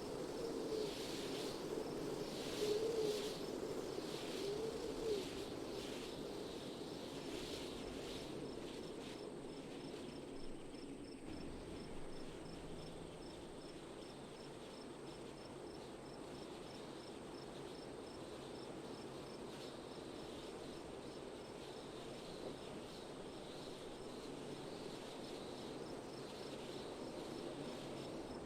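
Soft wind blowing outdoors, gusting a little in the first several seconds and then settling, with an insect chirping in a steady, even run of high-pitched pulses.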